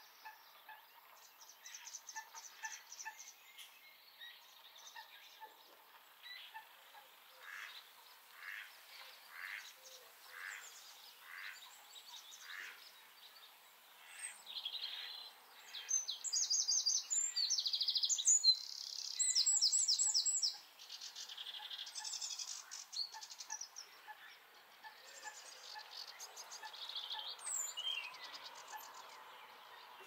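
Wild birds singing and calling. A slow series of evenly spaced single notes comes first. Then, about halfway through, several seconds of fast, high, trilled song make the loudest part, followed by scattered chirps.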